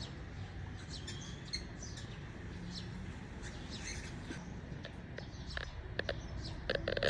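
Cockatiels chirping in short, scattered calls, with a louder flurry of calls near the end, over a steady low background rumble.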